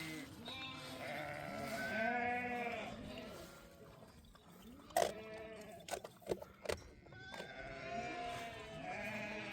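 Sheep bleating, several calls overlapping and wavering. In the middle comes a short run of about four sharp knocks, the first the loudest.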